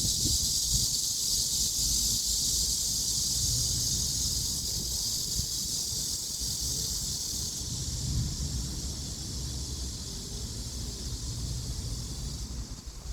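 Chorus of cicadas: a steady, high-pitched hiss that grows fainter about halfway through, with a low rumble underneath.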